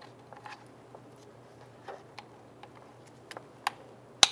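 Light plastic clicks and taps from a truck's power window switch being handled and its wiring connector plugged back in, with a sharper click near the end.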